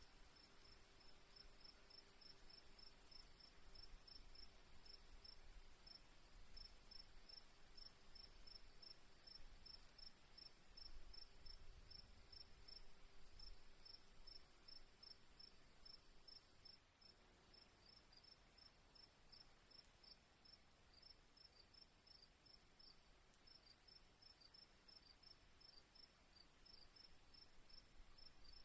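Crickets chirping softly in a steady rhythm, a few chirps a second, over a continuous high insect trill.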